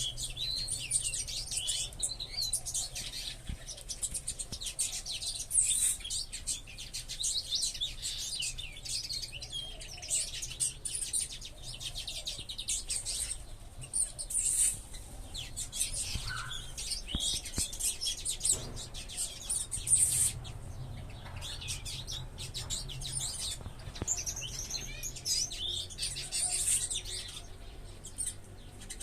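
A flock of small ornamental aviary birds chirping and calling continuously, with many high overlapping chirps.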